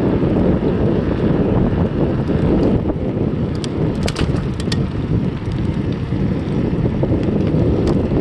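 Heavy wind buffeting the microphone, a steady loud rumble, with a few short sharp clicks or rattles a little past the middle.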